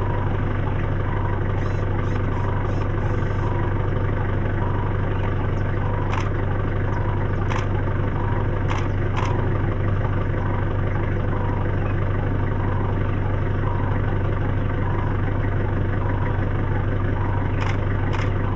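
Vehicle engine idling with a steady low drone, with a few faint clicks in the middle.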